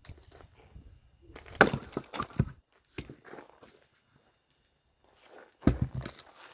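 Axe chopping firewood: a sharp strike about a second and a half in followed by the wood cracking and splitting apart, a lighter knock at about three seconds, and another heavy strike near the end.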